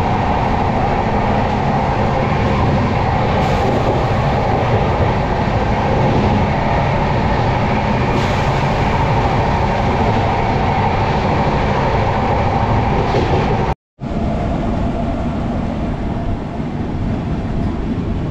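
Steady running noise of a moving passenger train, heard from inside the coach: wheels on the track. It cuts off abruptly about fourteen seconds in and resumes a little quieter.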